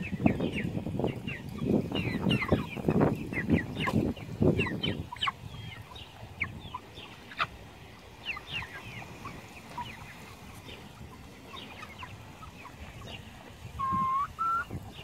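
Young meat chickens peeping, many short falling chirps, busiest in the first five seconds along with low rustling noise. Near the end a brief held tone sounds and then steps up in pitch.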